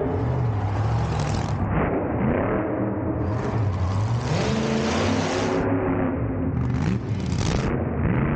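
Monster truck engine revving up and down several times as the throttle is worked.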